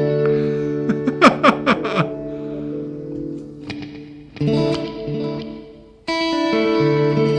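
Electric guitar played through the Neural DSP Mesa Boogie Mark IIC+ amp-modeling plugin. Sustained chords ring out, with a run of quick downward pitch swoops about a second in. The chords then fade out, and a new chord is struck abruptly near the end.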